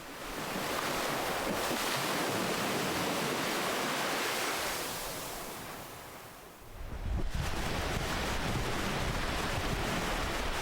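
Ocean waves washing ashore: a wave rushes in and slowly ebbs away, then a fresh, deeper surge of surf comes in suddenly about two-thirds of the way through and keeps running.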